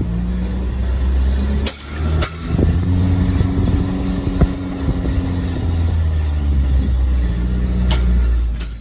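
Alfa Romeo 159 moving with a loud scraping noise from a brake over the car's low rumble, with a few sharp clicks: the sound of a small stone caught between the brake rotor and pad.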